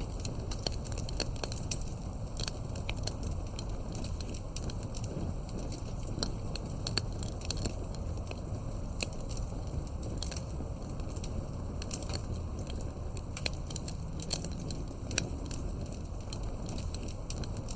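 Campfire crackling: wood burning with irregular sharp pops and snaps over a steady low rumble of flame.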